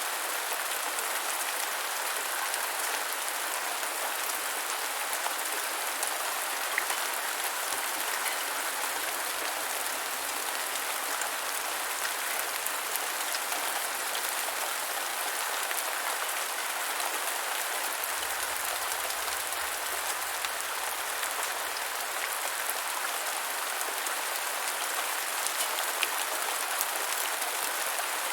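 Steady rain falling on the ground, an even hiss with many small drop ticks.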